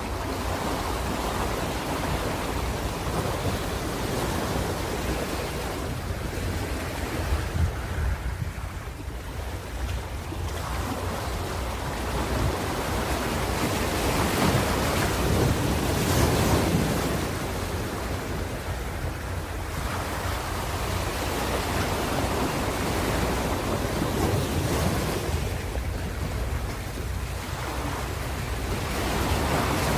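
Ocean surf: a steady wash of waves that swells into louder surges a little past the middle and again near the end, over a constant low rumble.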